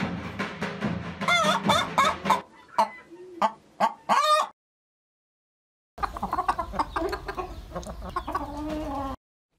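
Davul drum beaten in a quick steady rhythm for about the first two seconds, overlapped and then followed by hens clucking. The clucking breaks off for about a second and a half, then starts again over a low hum.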